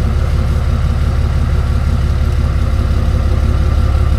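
Truck engine running at a steady idle: a deep, even rumble with a fast regular pulse.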